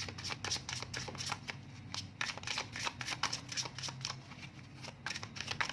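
Tarot cards from the Everyday Witch Tarot deck being shuffled and handled: a steady run of quick papery clicks and rustles.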